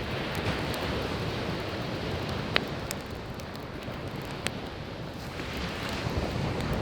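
Waves washing onto the shore in a steady rush, with a wood campfire crackling over it; two sharp pops stand out, about two and a half and four and a half seconds in.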